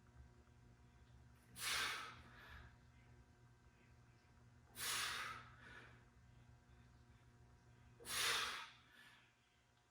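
A person breathing hard from the exertion of a weighted exercise: three forceful exhales about three seconds apart, each followed by a shorter, softer breath.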